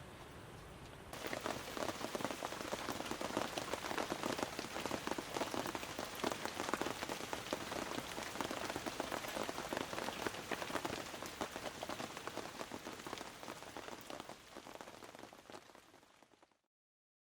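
Heavy rain falling on a surface: a dense, even rush of many fine drop hits that starts suddenly about a second in, fades over the last few seconds and cuts off to silence just before the end.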